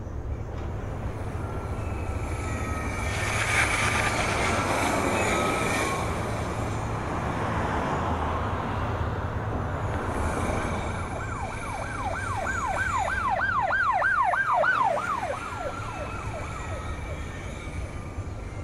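Street traffic noise with an emergency-vehicle siren. About eleven seconds in the siren switches to a fast yelp for a few seconds, then fades.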